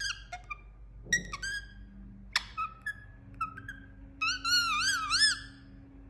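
Indian ringneck parakeet calling: a string of short whistled chirps and clicks, then a longer warbling whistle that wavers up and down near the end.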